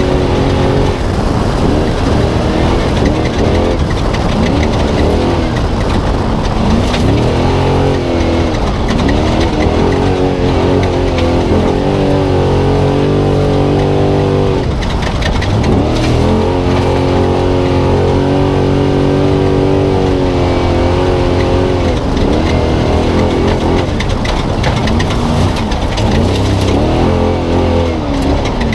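Spec Trophy Truck engine heard onboard at race pace, revving up and down again and again as the throttle comes on and off, held high and steady for several seconds just past the middle. Sharp knocks and clatters cut in here and there over the engine and road noise.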